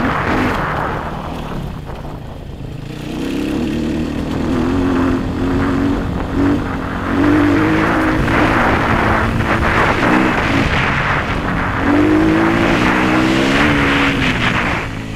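Sherco enduro motorcycle's engine pulling on and off throttle on a dirt track, its note rising and falling; it eases off about two seconds in, then pulls again.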